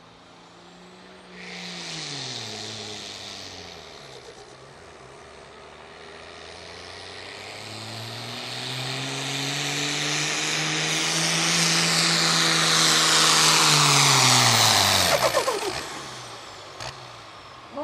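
Modified turbo-diesel pickup truck at full throttle in a pulling run. A short rev with a hiss comes first, then a long build in engine pitch and turbo whistle to its loudest point, before the throttle cuts off sharply about fifteen seconds in and the revs fall away.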